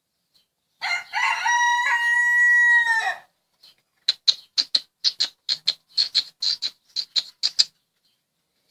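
A rooster crows once, a call of about two seconds. After it comes a quick run of short, high chirps, about five a second, lasting nearly four seconds.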